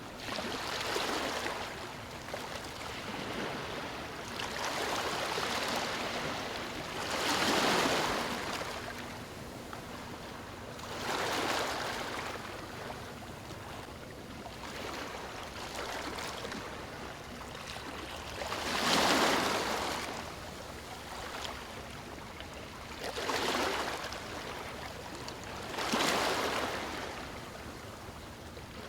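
Waves breaking and washing over stones, each surge a swell of hissing water followed by a lull, about seven times, a few seconds apart.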